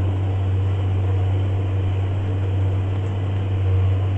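JCB Fastrac 8250 tractor's engine running steadily under load while ploughing, heard inside the cab as an even, deep drone.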